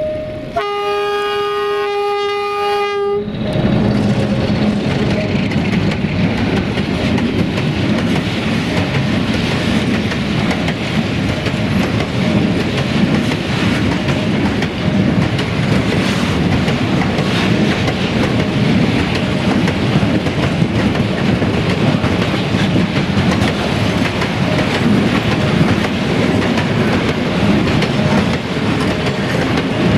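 Electroputere LDE2100 diesel-electric locomotives' horn sounding one long blast of about three seconds. The locomotives and a long freight train of wagons then roll by close up, wheels clattering steadily over the rail joints of the level crossing.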